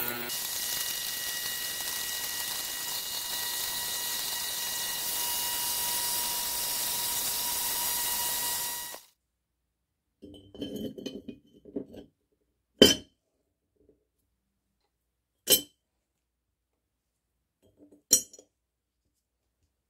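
A steady hiss with a faint high whine, which cuts off suddenly about nine seconds in. After a short silence come some handling rustles, then three sharp clinks of small hard parts a couple of seconds apart.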